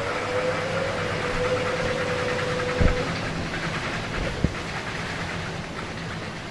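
Whirlpool top-loading washing machine running through its auto-diagnostic wash cycle. A steady motor whine stops about three seconds in, the drum and mechanism keep rumbling and slowly fade, and there are two short thumps, one just before the whine stops and one a second and a half later.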